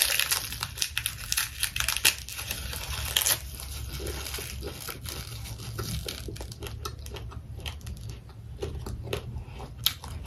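Chewing a mouthful of roasted seaweed (nori) wrapped around pork fry and crushed papad: crisp crunching and crinkling, densest for the first three seconds or so, then softer chewing with scattered clicks.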